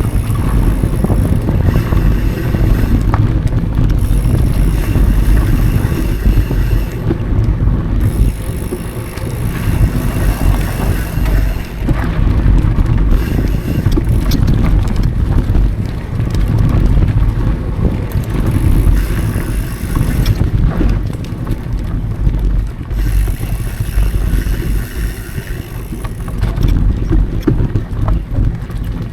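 Mountain bike riding over a dry dirt trail: steady tyre and trail rumble with wind buffeting the action camera's microphone. A high buzz comes and goes several times along the way.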